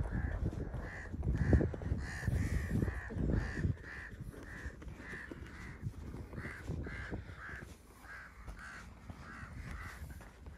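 A bird calling over and over in short, evenly spaced notes, about two a second. A low rumbling noise underneath is the loudest sound for the first four seconds or so, then fades.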